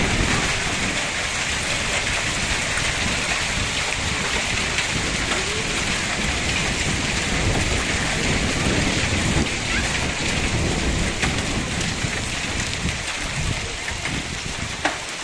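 Rain falling in a hailstorm: a steady, dense hiss, with uneven low rumbling underneath and a single knock near the end.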